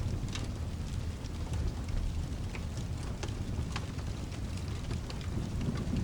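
Steady rain with a low continuous rumble underneath, and a fireplace crackling with scattered sharp pops a few times a second.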